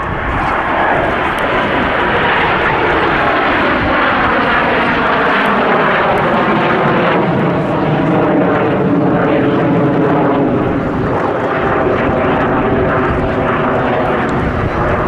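BAC Strikemaster jets with Rolls-Royce Viper turbojets making a loud pass, a steady jet roar with a whine that slides down in pitch over the first several seconds as they go by, then holds.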